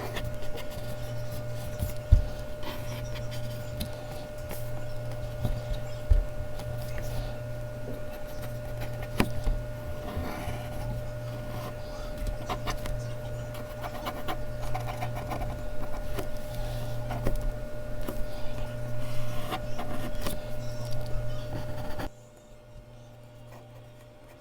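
Mechanical pencil scratching and rubbing on Bristol paper in quick, uneven strokes, over a steady hum, with a few sharp knocks. The sound drops away abruptly near the end.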